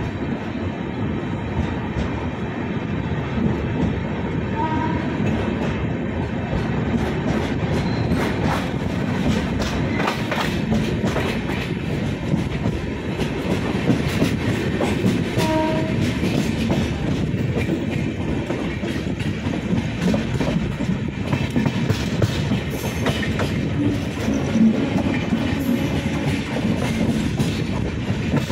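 Passenger train running along the track: a steady rumble of the coaches with irregular clicks and clacks of the wheels over rail joints.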